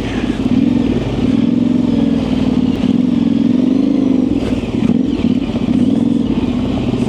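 Yamaha Tenere 700's parallel-twin engine, fitted with an aftermarket high exhaust, running under riding load, its revs rising and falling gently as the bike moves along the trail. A few light clicks sound about four and a half seconds in.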